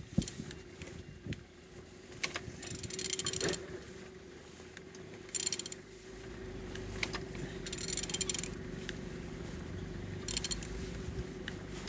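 Renault F9Q diesel engine being turned over by hand with a ratchet on the crankshaft: four bursts of ratchet clicking over a steady hum. The engine turns freely.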